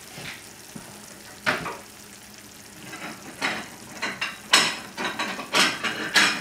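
A chicken cutlet sizzling gently in a frying pan, with a series of short scraping strokes as a knife cuts through the cooked chicken against the pan. The strokes come faster and louder in the last few seconds.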